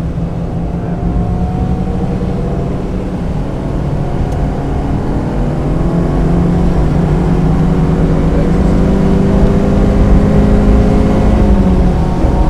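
1995 Mazda Miata's 1.8-litre four-cylinder engine under acceleration on track, its pitch climbing slowly and getting louder as it pulls through a gear, then dropping suddenly near the end.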